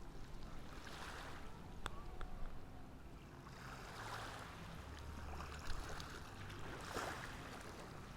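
Small ocean waves washing onto the shore, the surf swelling and fading about three times, each swell roughly three seconds after the last.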